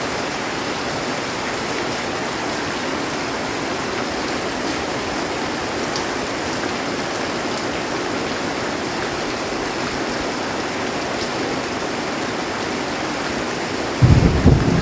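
Heavy rain falling on a metal roof, a steady even hiss. About a second before the end a sudden loud low rumble sets in.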